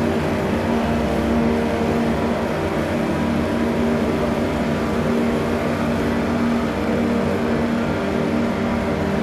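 Live electronic drone music: a dense, steady wall of sustained tones over a low rumble, with no beat, from a Korg Electribe 2 sampler processed through Chase Bliss Mood and Make Noise Strega effects.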